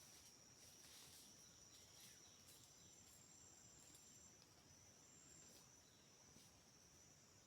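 Faint, steady high-pitched insect chorus, with a second, higher trill coming and going.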